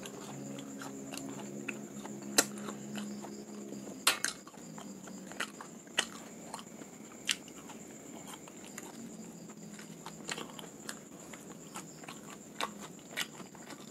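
Close-up eating sounds: a mouth chewing fried crickets and bread, with irregular sharp crunches and mouth clicks, a few louder ones standing out.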